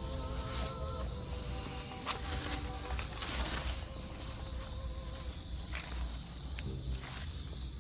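Night insects, crickets or katydids, in a steady fast-pulsing chorus of high chirps, with a brief burst of rustling noise about three seconds in.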